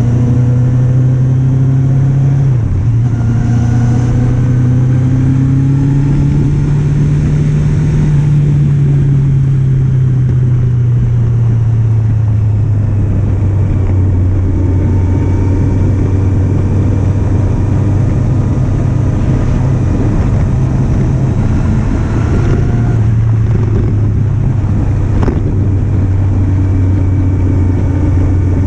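Engine of a 2008 Kawasaki Z750, a 748 cc inline-four, running steadily under way. The engine note climbs slowly, then eases off gradually, with a brief dip about three seconds in.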